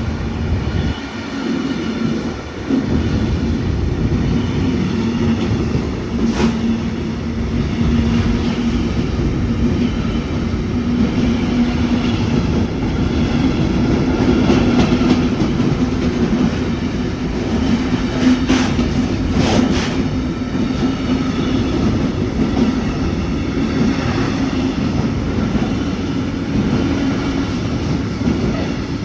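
Freight train passing, a steady loud rumble of wagons rolling over the rails with a steady low hum underneath. A few sharp clacks stand out about six seconds in and again around eighteen to twenty seconds in.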